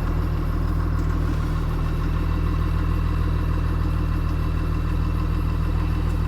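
Cummins 6.7 turbo-diesel in a 2009 Blue Bird Vision school bus idling steadily seconds after a cold start, without block heater, in freezing weather.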